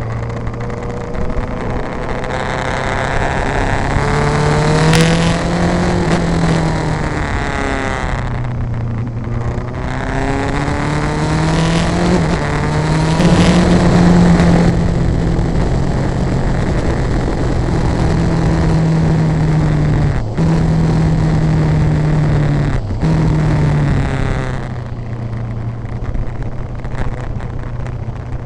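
Vehicle engine accelerating hard through the gears, its pitch climbing twice with a drop between, then holding at high revs with two short breaks for shifts before easing off. There is steady wind and road noise throughout.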